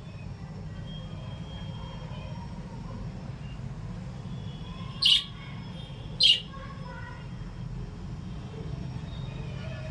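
Lovebirds and budgies chattering softly, with two loud, sharp shrieks about five and six seconds in, over a steady low hum.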